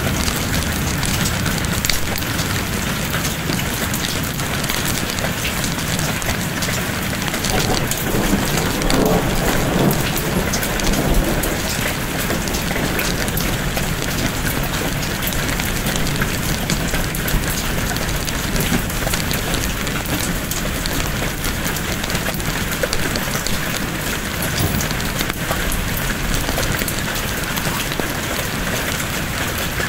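Steady heavy rain pattering, with a low rumble of thunder swelling and fading about eight to eleven seconds in.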